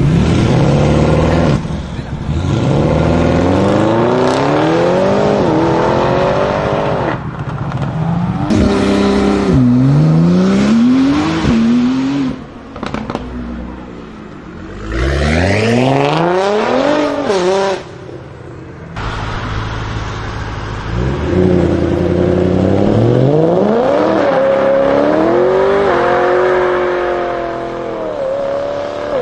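High-performance car engines accelerating hard several times in a row, each run a steeply rising engine pitch that drops back at a gear change or lift-off before climbing again.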